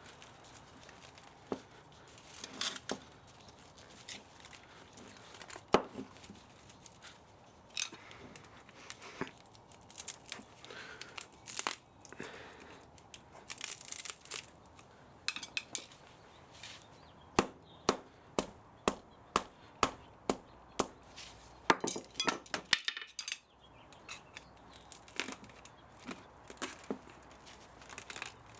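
Hand tools working at an old electric spa motor being scrapped for copper and aluminium: irregular sharp metal clicks, snips and crunches, with a quicker run of about a dozen clicks in the second half.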